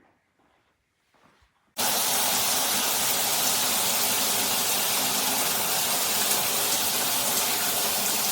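Water from a rainfall shower head starts abruptly about two seconds in and sprays steadily, an even rushing hiss of water. Before that there is near silence with a few faint ticks.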